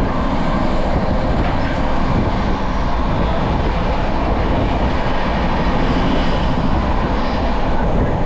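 Express passenger train coach running at speed, heard through its open door: a steady, unbroken rumble and rush of wheels on the track.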